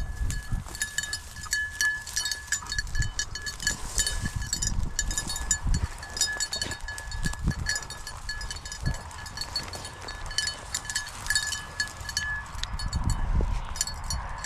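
A small bell on a bird dog's collar jingling in quick, uneven strikes as the dog moves through the field, over low thuds of footsteps in the cover.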